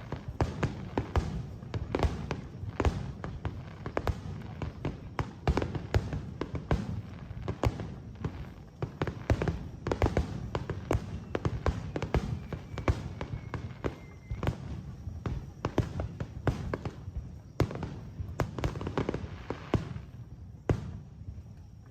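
Fireworks display: a rapid, irregular run of shell bursts, several a second, with low booms and crackle.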